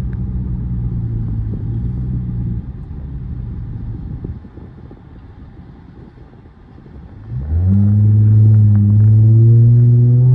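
Dodge car's engine heard from inside the cabin, running steadily at first, then about seven seconds in it opens up under hard throttle, loud, its pitch climbing steadily as the car accelerates.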